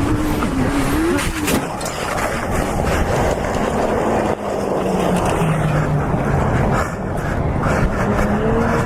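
Car engine running under heavy road and wind noise, its note dipping and then rising again in the second half.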